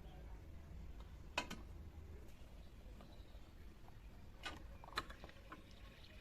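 A few light clicks of miniature utensils and cookware, one about a second and a half in and two close together near the end, over a low steady hum.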